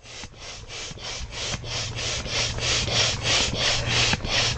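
Manual air pump being worked fast to inflate an air mattress: a quick, even run of air hisses at about four strokes a second, growing louder over the first couple of seconds.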